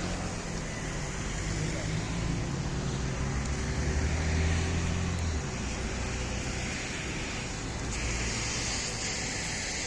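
Road traffic: a motor vehicle's engine rumbling, growing loudest about halfway through and then dropping away, with a hiss coming up near the end.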